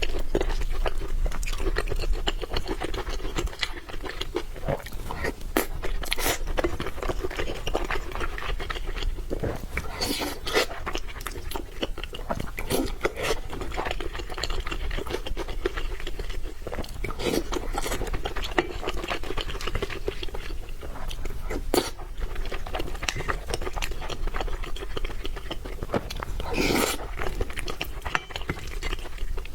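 Close-miked chewing and biting of food, with many crisp crunches and clicks throughout.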